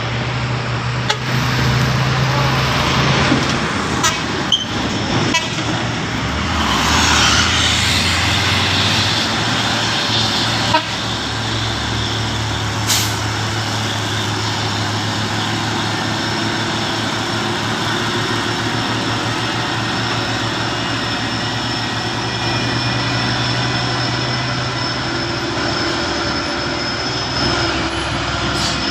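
Heavy truck diesel engine running steadily under load on an uphill climb, with road noise and a few sharp knocks.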